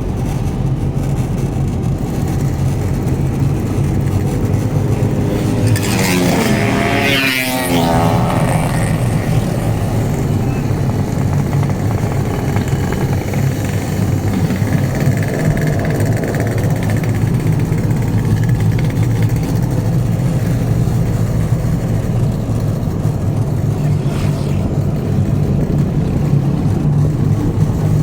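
Vehicle engine running steadily on an off-road trail, with a sharp drop in engine pitch about six to eight seconds in.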